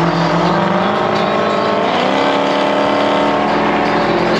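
Chevrolet Camaro's exhaust, dumped just after the X-pipe under the car, heard while driving: the engine note rises as the car accelerates about a second in, then holds steady over road noise.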